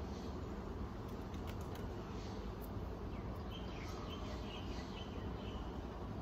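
Steady low background hum and hiss with faint bird chirps, a run of short high calls starting a little past halfway through.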